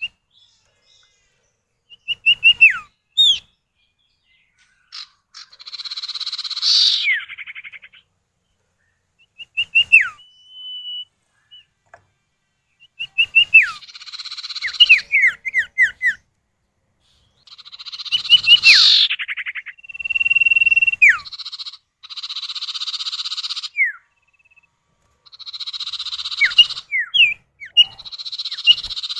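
Common iora (sirtu or cipow) pair calling back and forth, the kind of recording used to lure or set off other birds. The calls are bouts of sharp, downward-sliding whistles and harsh, rasping chatter, about six bouts with short pauses between.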